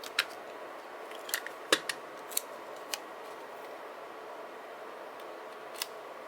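Scissors snipping: a run of short, sharp snips in the first three seconds, the loudest a little under two seconds in, then one more near the end, over a steady background hiss.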